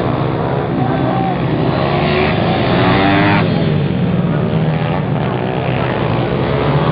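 Several pitbike racing engines, small single-cylinder four-strokes, revving and dropping as the bikes accelerate and shift, the overlapping pitches rising and falling together.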